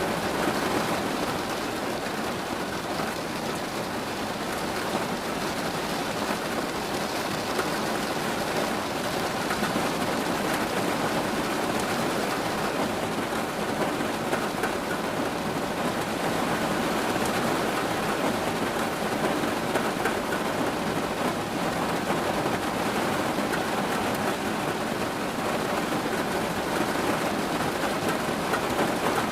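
Steady rain falling, pattering densely and evenly on a surface.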